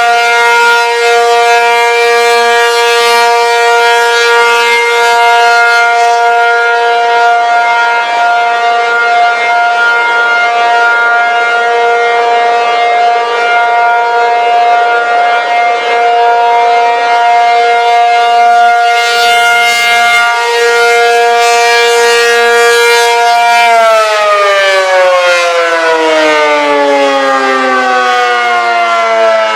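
ACA P-50 dual-tone rotating tornado siren sounding its steady two-note chord at full speed for a tornado drill test. About 24 seconds in it begins to wind down, both tones falling in pitch together.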